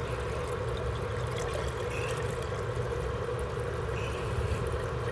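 Hot water pouring steadily from a jug into a PVC air-conditioner condensate drain pipe, a continuous pour, to flush out a clogged drain line.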